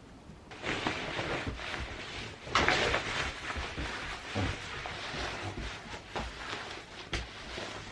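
Irregular rustling and handling noise close to the microphone, starting about half a second in, with a few sharper knocks; the loudest comes about two and a half seconds in.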